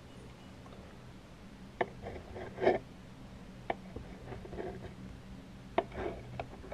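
Close-miked ASMR trigger sounds: scattered taps and clicks with a few short scratchy, crinkly bursts, the loudest about a third of the way in, over a low steady hum.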